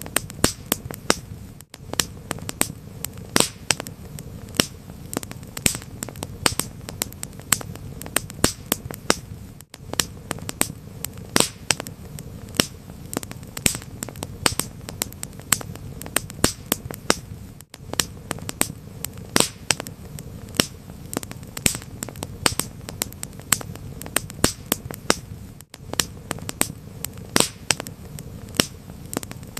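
Wood fire crackling: frequent sharp pops and snaps over a low, steady rumble of burning. There is a brief gap in the sound about every eight seconds.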